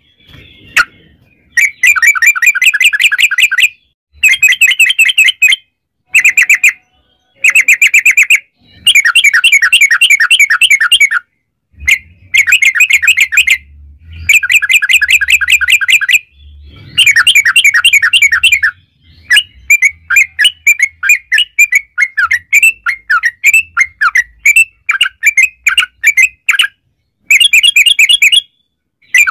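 Yellow-vented bulbul (trucukan) singing long rolling phrases: loud bursts of quick, bubbly repeated notes, each lasting one to three seconds, with short pauses between them. About two-thirds of the way through, the notes come more slowly and separately before the rapid phrases return near the end.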